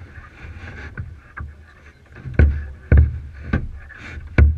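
Kayak paddling: paddle strokes splashing through the water, with sharp knocks and low thumps that come more often in the second half.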